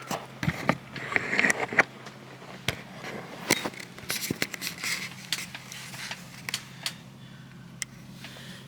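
Scattered clicks, knocks and rustling from objects being handled, busiest in the first six seconds, over a steady low hum.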